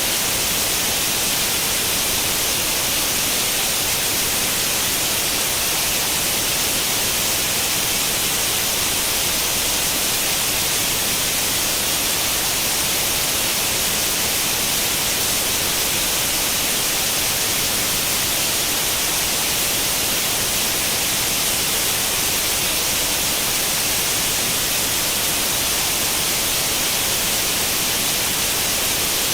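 Steady white noise in the manner of an untuned tube television's static: an even, unbroken hiss, strongest in the high range.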